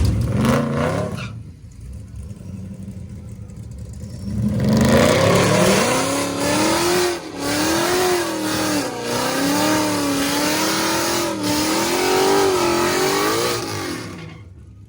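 Car engine at full throttle: a loud low rumble fades about a second in, then after a quieter stretch the engine revs up hard and runs at high revs, its pitch climbing and dropping back several times as it shifts through the gears, before cutting off suddenly near the end.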